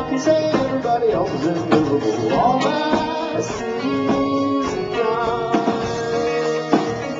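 Live band music, with sustained guitar notes, some gliding pitches and regular drum hits, recorded through a small camcorder microphone that cuts off the highs.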